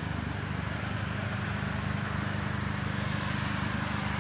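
A motor vehicle's engine running with a steady low hum that does not rise or fall.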